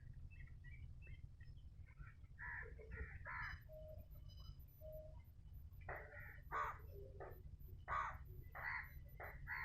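Crows cawing in a series of short, harsh calls. A few come about two to three seconds in, then a longer run from about six seconds onward, over a low steady rumble.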